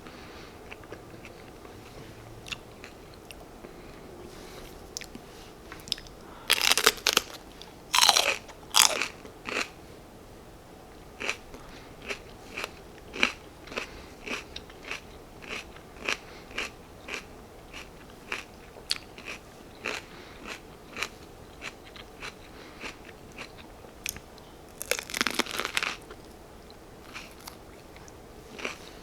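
Close-miked crunchy bites into raw baby bell pepper followed by chewing: a few loud crunches, then regular crunchy chews about twice a second, with another burst of bites near the end.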